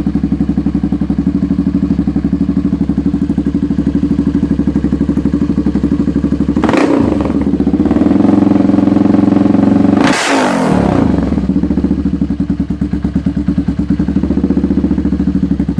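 1985 Honda ATC 350X's single-cylinder four-stroke engine running loud through a Cobra aluminum cone silencer that is little more than an open hole. It idles with a steady pulsing beat, is revved up about seven seconds in and again near ten seconds, then settles back to idle.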